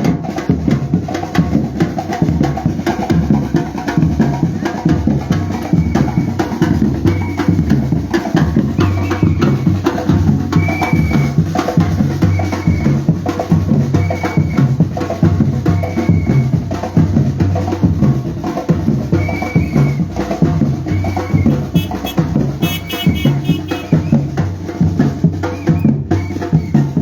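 Batucada percussion group playing a steady, driving drum rhythm with bass and snare drums, over which a short high tone recurs about once a second.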